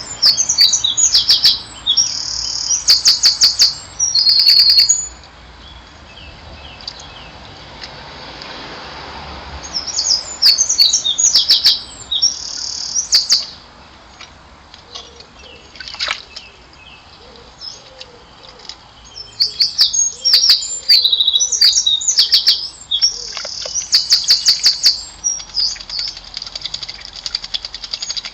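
Songbird song: bursts of high, rapid chirps and trills lasting a few seconds each, with pauses between. They come at the start, again about ten seconds in, and again from about nineteen seconds.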